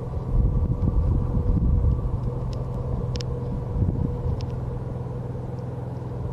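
Steady mechanical rumble of a running motor, with a constant low hum and a few light clicks about three seconds in.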